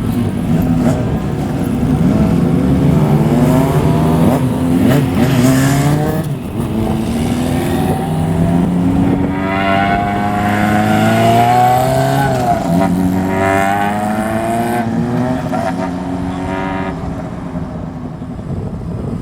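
Motorcycles revving and accelerating away, engine pitch rising again and again as they pull through the gears, then fading near the end.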